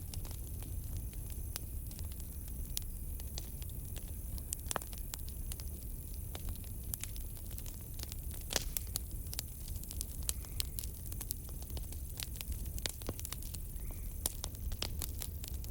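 Campfire crackling, with irregular sharp pops and snaps over a low rumble of burning wood. Crickets trill steadily and high in the background.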